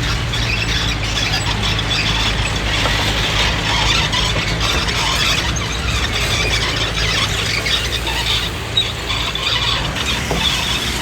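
Crawler bulldozer working: the diesel engine runs steadily underneath while the steel tracks squeal and squeak continuously.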